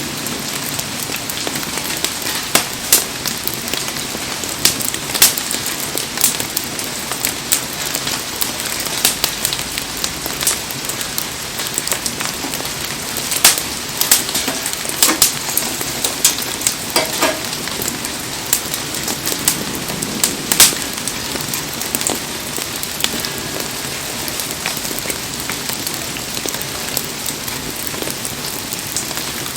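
Heavy rain falling steadily on and around a burning wood campfire, with sharp crackles and pops scattered throughout.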